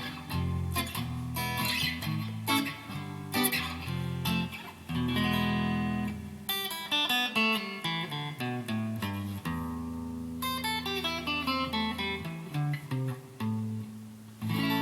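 Yamaha Pacifica PAC012 electric guitar played on its single-coil neck pickup (switch position 5): strummed chords, then runs of single picked notes.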